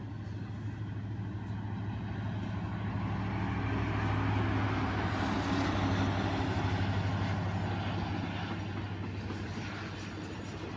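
Diesel freight train passing: a steady low locomotive engine hum and rumble that grows louder toward the middle and then slowly fades.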